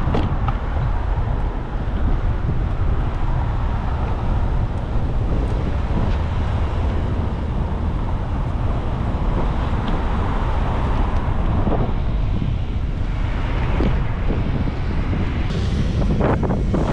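Wind buffeting the microphone on a moving bicycle: a steady low rumble of wind and road noise. Near the end it turns brighter, with a few sharp ticks.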